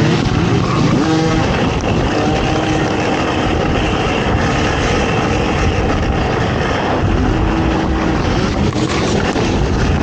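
ATV engine running hard at race pace, its pitch rising and falling as it revs, over a loud, steady rushing noise.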